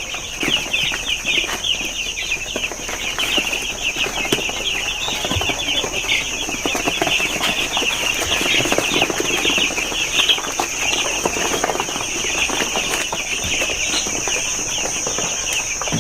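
A flock of six-day-old broiler chicks peeping continuously, many overlapping high chirps at once, over a steady high-pitched whine.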